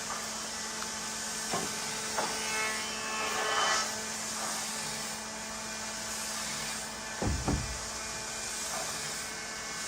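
Wood being rubbed and handled, with a few light knocks, over a steady hiss and hum.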